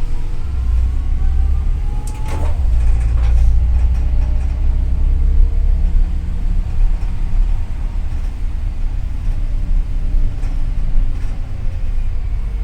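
Double-decker city bus driving, heard from inside the passenger cabin: a steady low rumble of engine and road, with a faint engine whine that shifts in pitch and a few brief rattles or knocks.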